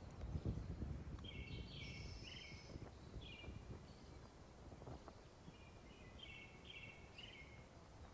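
Small birds chirping: short, quick chirps come in a cluster in the first few seconds and another run near the end, over a low outdoor rumble.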